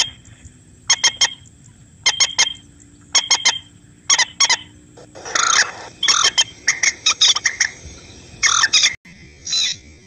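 Birds calling: short, harsh squawks in quick groups of two to four notes, repeating about once a second.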